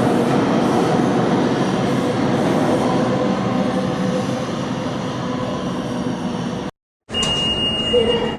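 New York City subway train on the IRT 7th Avenue Line running through the station: a steady loud rumble of wheels on rail, cut off sharply about seven seconds in. A steady high tone follows near the end.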